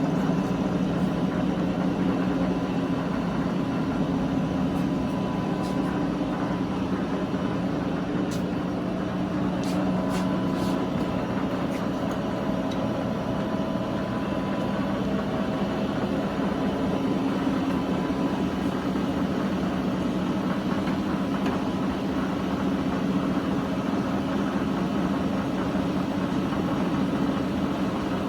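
Large engine lathe running under power, its 30 kW main motor and gear drive giving a steady hum. A faint higher whine joins about nine seconds in and drops away several seconds later, with a few light clicks.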